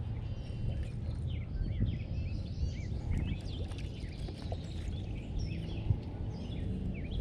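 Several songbirds chirping and warbling in quick short phrases, over a steady low rumble, with a single sharp knock about six seconds in.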